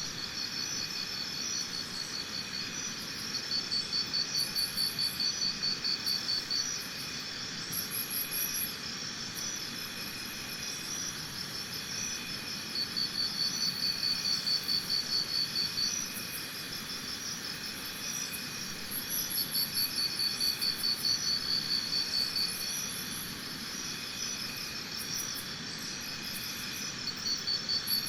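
Insects trilling: high, rapidly pulsed trills in bouts a second to a few seconds long, coming back every few seconds over a steady high-pitched chorus.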